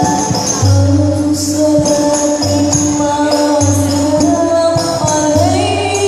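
Sholawat (Islamic devotional) music: jingling tambourines keep the rhythm under a held melody line, with a deep low note sounding about every second.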